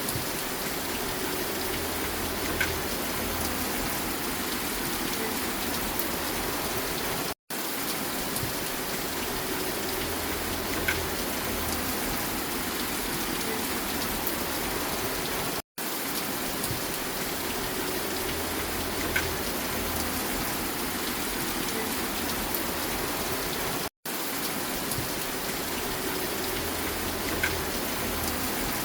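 Steady, even rain. It is a short recording looped: the sound drops out for a split second about every eight seconds, and then the same stretch repeats.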